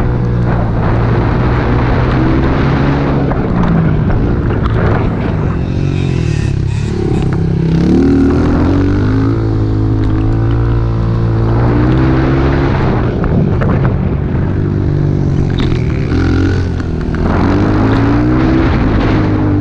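Small pit bike engine running hard under riding, its pitch climbing and dropping several times as the throttle opens and closes and the gears change.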